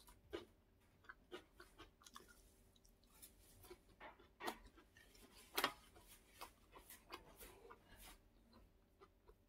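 Close-miked chewing of a mouthful of food: soft, irregular mouth clicks and smacks, with a sharper click about halfway through.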